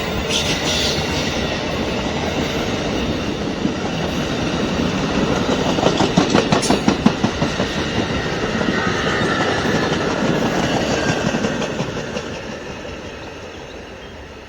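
Amtrak passenger train cars rolling past, wheels clicking over the rail joints, with a quick run of sharp clacks about six seconds in as trucks cross a joint. The sound fades away near the end as the train moves off.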